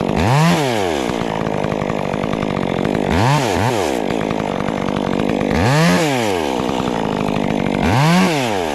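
Stihl MS 400 C two-stroke chainsaw idling, blipped up to speed and back down four times (the second is a quick double blip), as it nicks marks into a log for bucking lengths.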